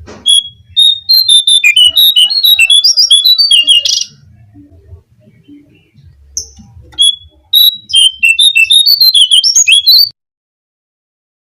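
Recorded song of a jongkangan (cingcoang coklat) played as a bird-trapping lure call: a fast jumble of high whistled notes that slide up and down. It runs for about four seconds, pauses for about three, then comes back in a second burst that stops suddenly.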